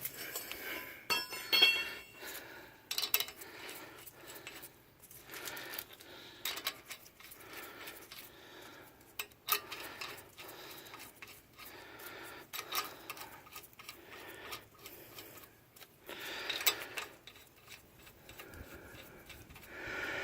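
Steel lug nuts clinking and rattling as they are handled and threaded loosely by hand back onto a truck's wheel studs: scattered short metallic clicks, with a brief jangling rattle about a second and a half in.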